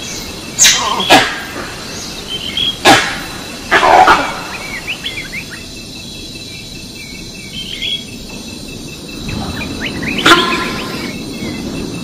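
Recorded animal calls played loudly through the loudspeaker of a Kethi Rakshak bioacoustic crop-protection repellent, meant to scare wild animals from the field. Several sharp, loud calls come within the first four seconds and another near the end, with small bird chirps between them.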